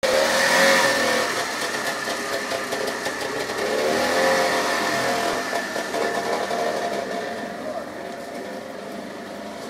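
Trabant 601's air-cooled two-stroke twin running just after its first start in seven years of storage, the revs swelling and dropping unevenly twice before settling, smoking from the exhaust. The sound grows fainter near the end.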